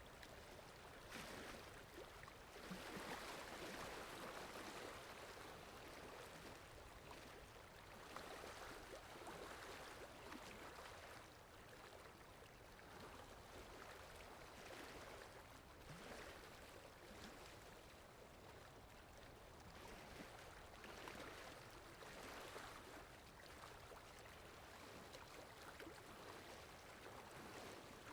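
Faint, steady sound of flowing water from a water sound effect, swelling and easing gently every few seconds.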